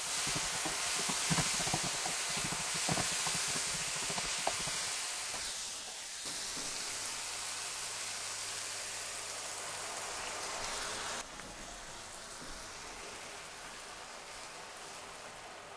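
Diced vegetables and red lentils sizzling in hot oil in a black steel frying pan, with a spatula scraping and stirring through them over the first few seconds. The sizzle drops abruptly in level about six seconds in and again about eleven seconds in.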